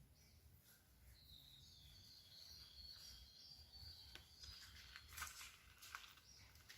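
Faint outdoor ambience: a thin, high-pitched call from a small bird or insect holds for a few seconds, followed by a few soft clicks or rustles.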